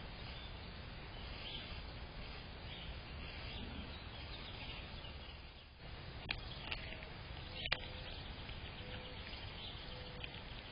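Steady outdoor background hiss with faint bird chirps. Three brief clicks come about two-thirds of the way in.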